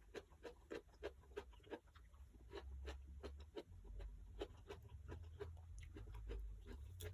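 Close-up crunchy chewing of raw bitter melon, about three faint crisp crunches a second.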